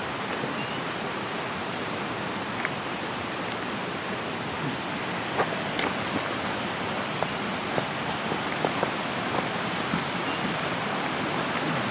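Steady rush of running stream water, with a few faint, scattered clicks and snaps over it.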